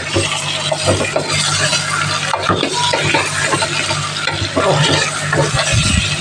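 Chicken pieces frying with browned onions and tomatoes in an aluminium pot, sizzling steadily, while a steel spoon stirs them, scraping and knocking against the pot's sides.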